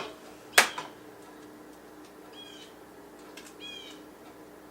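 A single sharp knock about half a second in, then a few short, high bird chirps in the background.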